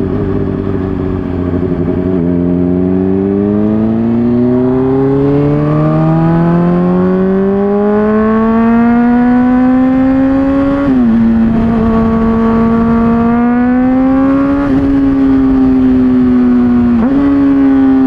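Honda CBR600RR inline-four motorcycle engine running through an MGP Growler aftermarket exhaust. Its note rises steadily for about nine seconds as it pulls up through the revs, then holds fairly level, with three brief dips in pitch.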